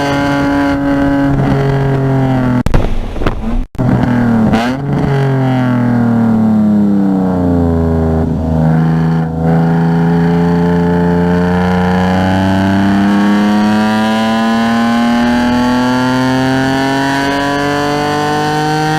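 Car engine under way at high revs, with a few sharp breaks in the sound a few seconds in, as if shifting down. The revs fall until about a third of the way through, then climb slowly and steadily to the end as the car accelerates.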